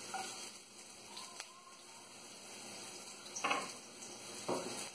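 Minced garlic and ginger sizzling quietly in a little hot olive oil in a nonstick wok, with two brief louder bursts near the end.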